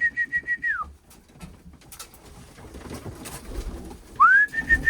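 A trilling, high whistle from a pigeon keeper calling his birds, held on one note with a quick pulse, rising in and falling away at the end; one ends just under a second in and another begins near the end. Pigeons coo softly between the whistles.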